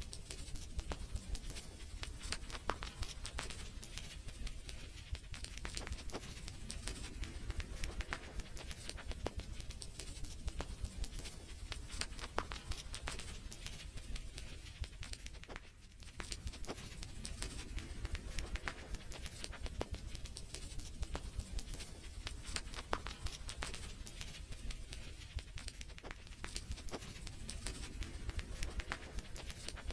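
Wood fire in a fireplace crackling, with frequent irregular sharp pops and snaps over a low steady rumble of the flames, dipping briefly quieter about halfway through.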